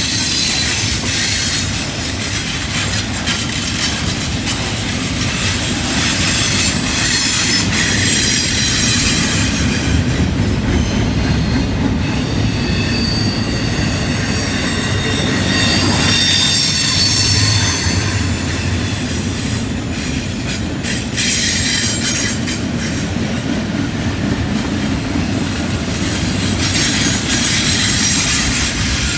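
Double-stack intermodal freight cars rolling through a curve, their wheels squealing in several wavering high tones over a steady rumble and clatter.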